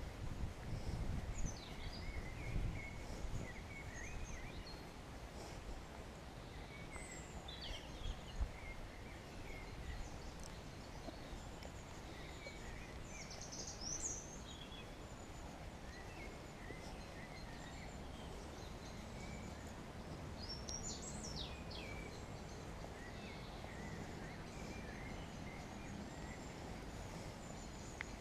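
Several songbirds chirping and trilling in short, scattered phrases over a steady low rumble of distant traffic.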